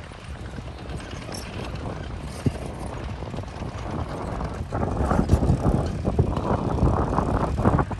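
Heavy earthmoving machinery running with a steady low engine rumble that grows louder about halfway through, joined by irregular knocking and clattering.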